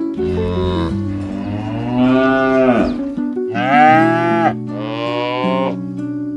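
Cattle mooing: four long, drawn-out calls one after another, the second sliding down in pitch as it ends.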